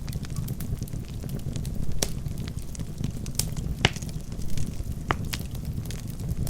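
Wood logs burning in a fireplace: a steady low rumble of flames with irregular sharp crackles and pops from the wood, one louder pop a little under four seconds in.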